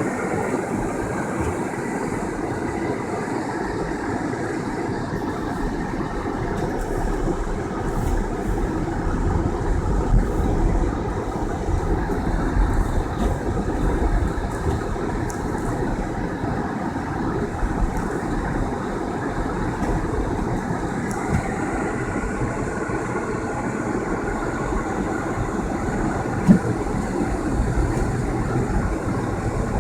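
Car driving on a snowy road: steady engine and tyre rumble, with one short knock near the end.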